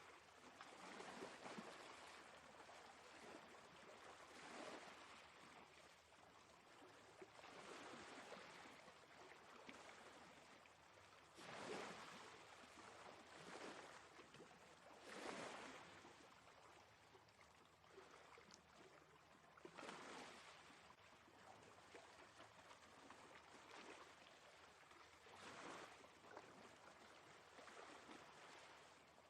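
Quiet sea waves washing ashore, each surge swelling and fading every three to five seconds.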